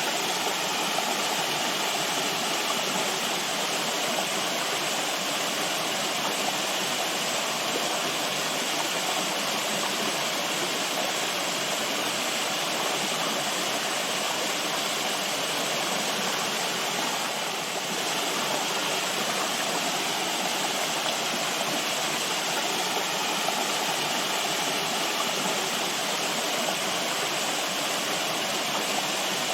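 Steady rushing of flowing water, like a stream or small waterfall, an even wash of noise without breaks.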